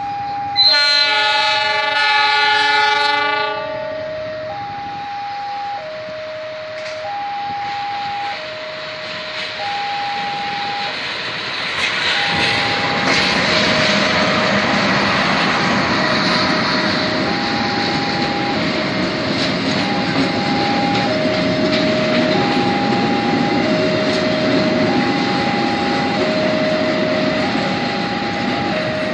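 GE CC 206 diesel-electric locomotive sounding its multi-tone horn for about three seconds, then passing close by with its engine and wheels rumbling over the rails, louder from about twelve seconds in. A level-crossing alarm sounds a slow alternating high-low two-tone warning throughout.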